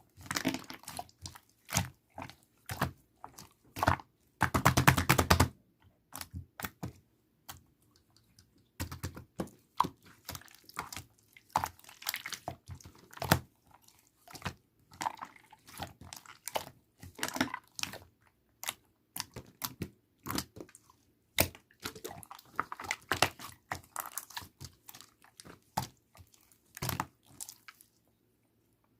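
Slime being squished and pressed by hand, giving irregular sticky clicks and pops, with a dense run of clicks about five seconds in. It stops a second before the end.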